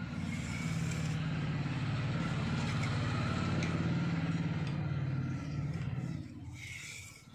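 An engine running, a steady low hum that drops away about six seconds in.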